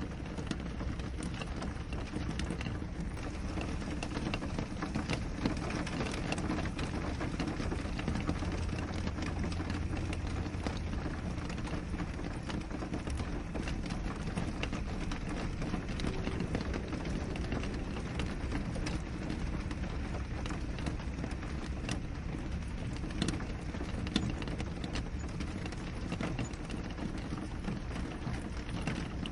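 Steady rain on a window pane: a constant hiss of rainfall with many small drops ticking against the glass.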